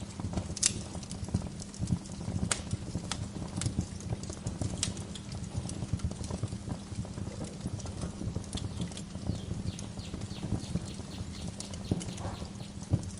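Wood fire in a fireplace crackling, with a steady low rumble under irregular crackles and several sharp pops in the first five seconds.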